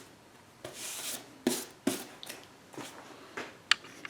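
A cut plexiglass panel being handled against a wooden box: short rubbing and sliding scrapes with several sharp taps and knocks.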